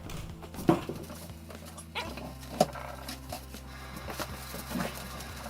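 Handling noises as a picture frame is dusted off: scattered light rubs and taps, with two sharp knocks about two-thirds of a second and two and a half seconds in, over a steady low hum.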